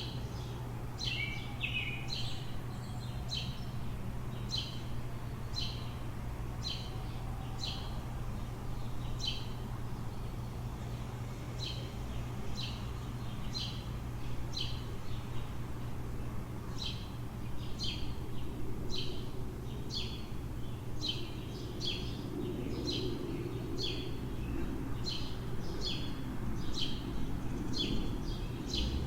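A bird chirping over and over, short single chirps about one to two a second, over a steady low city hum. A low rumble, like a vehicle passing, swells in the last several seconds.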